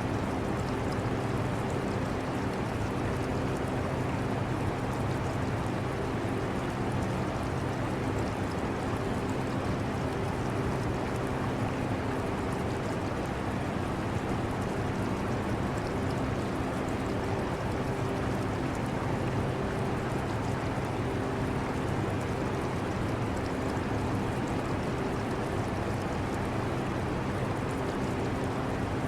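Portable air conditioner running with a steady hum, blended with the trickle and splash of aquarium water.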